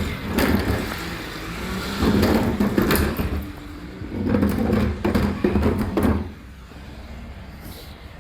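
Recycling truck's diesel engine running loudly with repeated clattering knocks, then dropping to a quieter, steadier running sound about six seconds in.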